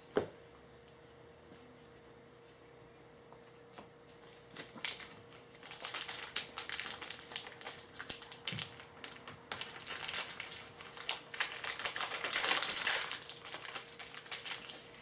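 Trading-card pack wrapper being handled and torn open, a dense crackly crinkling and rustling that starts about four and a half seconds in, after a quiet start.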